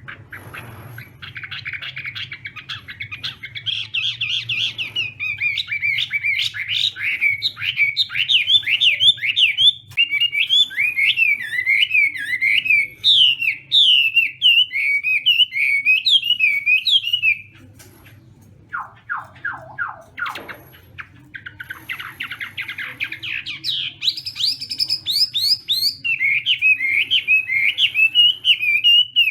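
Chinese hwamei (hoạ mi) singing a long, varied song of rapid repeated warbling phrases. About two-thirds of the way through it breaks off briefly, gives a few lower down-slurred notes, then resumes.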